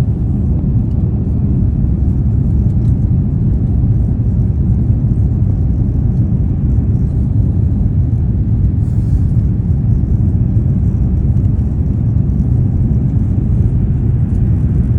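Steady low rumble of an Airbus A350-900 airliner's Rolls-Royce Trent XWB engines and airflow during takeoff, even in level throughout.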